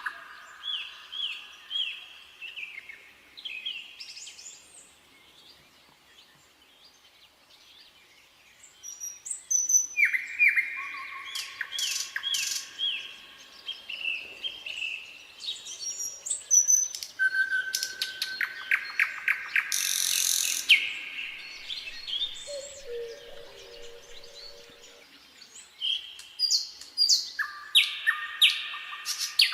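Nightingale singing: varied phrases of rapidly repeated notes, fast rattling trills and whistles, separated by short pauses, with a quieter gap of a few seconds near the start. A lower-pitched call sounds briefly about two-thirds of the way through.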